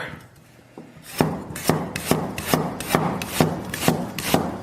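Knife slicing ginger on a chopping board, in even strokes about two a second, starting about a second in.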